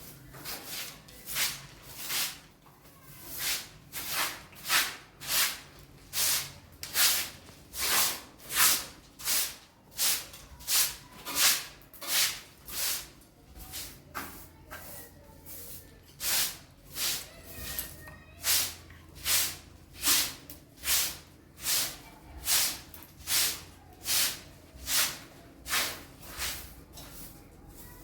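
Footsteps crunching in snow at a steady walking pace, about one step every three-quarters of a second, over a faint low rumble.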